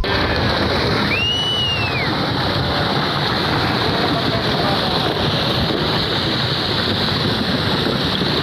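Steady rushing noise of wind and sea water, with one brief high whistling tone that rises and falls about a second in.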